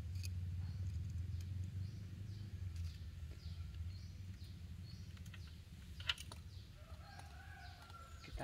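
Quiet background with a steady low hum and faint bird chirps about once a second. A few light clicks sound, the sharpest about six seconds in, and a short bird call comes near the end.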